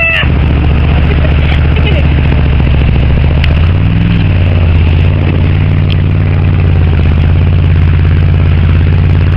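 GMC Suburban's engine running steadily, with a brief rise in the engine note about four seconds in.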